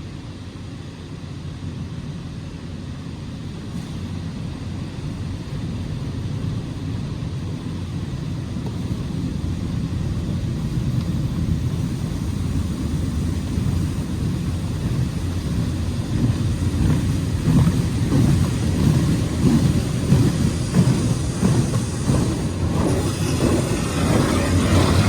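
Automatic car wash machinery running: a low, steady rumble that grows steadily louder, with a little more hiss near the end.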